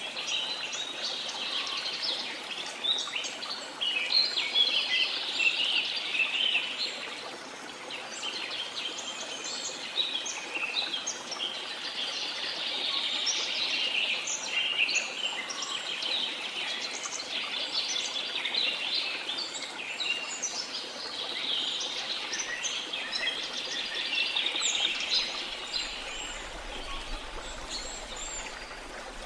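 A dense chorus of many birds chirping and trilling in a rainforest over a steady background rush of running water, with the calls thinning somewhat near the end.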